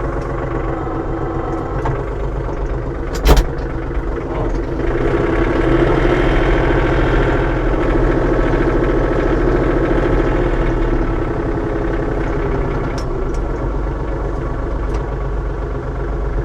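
A vehicle engine running steadily, with one sharp knock about three seconds in; the engine grows louder from about five to eleven seconds in, then settles back.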